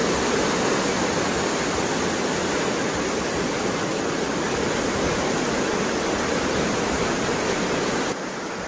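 Waterfall rushing with a steady, even roar of falling water; it softens slightly near the end.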